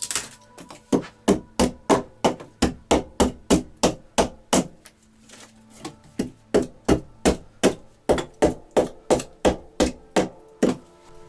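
Hammer blows on wood in two runs of quick, even strikes at about three a second, with a short pause between the runs.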